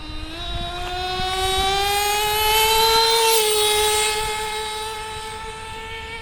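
JL MAX .28 two-stroke nitro engine in a Traxxas T-Maxx RC truck at full throttle on a top-speed run, its high-pitched note climbing steadily as the truck accelerates. The note is loudest about three seconds in, dips slightly in pitch as the truck passes, then holds steady and fades.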